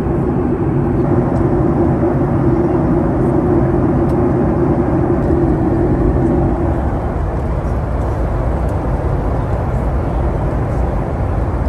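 Steady cabin noise of a Boeing 737-800 in descent: a loud rumble of its CFM56-7B jet engines and airflow, with a constant low hum.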